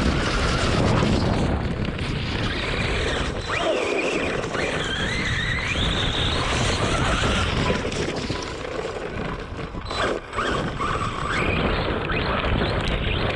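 Electric RC monster truck driving over rough ground: heavy rumble and buffeting on the microphone, with the brushless motor's whine rising and falling as the throttle is worked.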